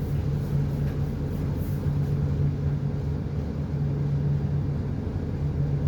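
Steady low drone of a boat's diesel engine running at constant speed, with a strong hum at one pitch.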